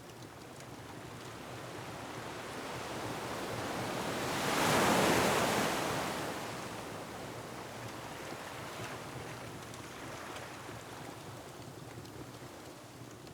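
An ocean wave surging in and breaking on a rocky shore, swelling to its loudest about five seconds in and then washing back, over a steady rush of surf and wind. A few faint crackles sound near the end.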